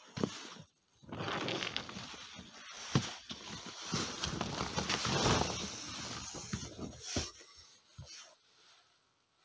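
A person trudging through deep snow: crunching, shuffling steps and rustling clothing, with a few sharp knocks in the middle and near the end.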